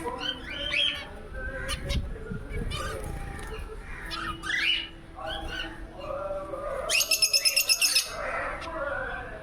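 African lovebirds and finches chirping and squawking together in a busy, overlapping chorus, with a loud rapid run of high chirps about seven seconds in.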